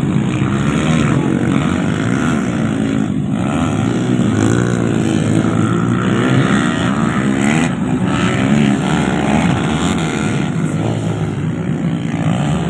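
Dirt bike engines racing, revving up and down in pitch as the riders open and close the throttle.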